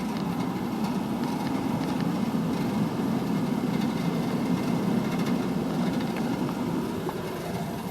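Steady low rushing hum of an attic HVAC air handler running, with no clear changes.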